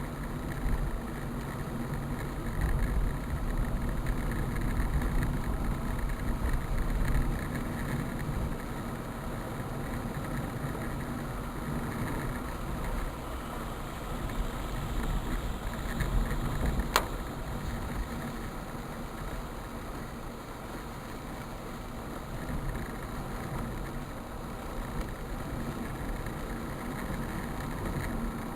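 A motor vehicle's engine running steadily with a low rumble and a faint hum, and a single sharp click about seventeen seconds in.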